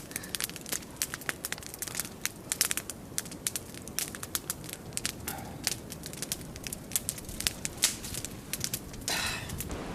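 Log campfire crackling and popping: dense, irregular snaps with a steady hiss of burning underneath, and a brief stronger hiss near the end.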